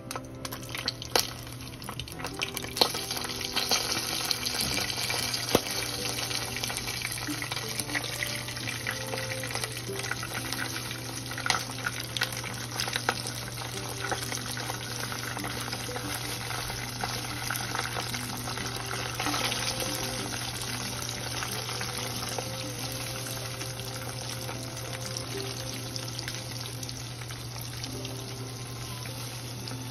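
Floured chicken pieces frying for karaage, sizzling and crackling steadily in shallow oil in a frying pan. There are sharper spits and crackles in the first few seconds and again around eleven seconds, as more raw pieces go into the hot oil.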